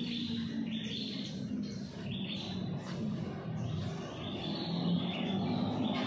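A bird calling over and over, short high calls roughly one every second, over a steady low rumble.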